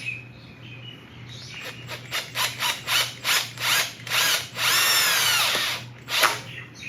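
Power drill driving a drywall screw into a plastic oil-filter bypass plug in an LS engine block: a run of short trigger pulses, then a longer run whose whine drops and rises in pitch as the screw bites, and one last short pulse.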